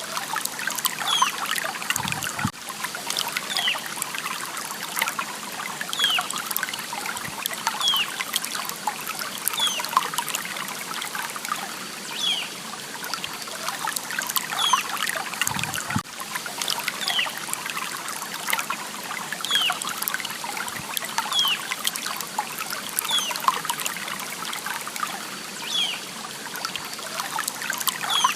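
Water trickling and babbling in a small stream, steady throughout, with short high chirps recurring every second or two.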